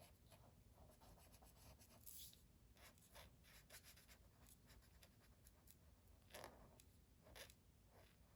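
Faint scratching of a felt-tip marker on paper in short, irregular strokes, colouring in a drawing; a few strokes stand out a little louder.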